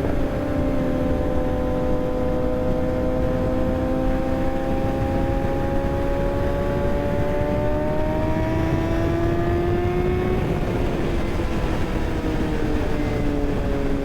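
Kawasaki ZX6R's inline-four engine pulling under steady throttle, its pitch slowly rising for about ten seconds and then dropping as the throttle is rolled off, over heavy wind noise.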